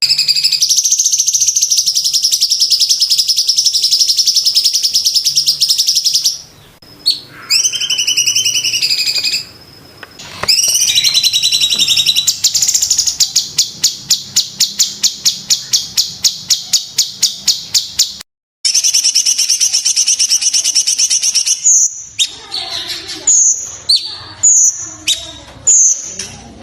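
Cucak cungkok song, loud and high: a dense continuous trill, a few sliding calls, then a long rapid series of sharp notes at about six a second. It breaks off suddenly, followed by another trill and a run of short calls about two a second.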